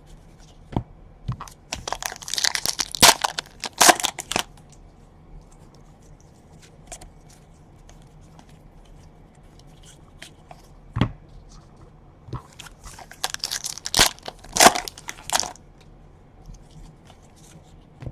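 Trading card pack wrappers being torn open and crinkled in two spells, about two seconds in and again about twelve seconds in, with light clicks and taps of cards being handled in between.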